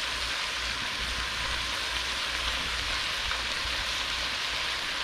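Marinated tuna chunks and stir-fry vegetables sizzling steadily in a hot frying pan.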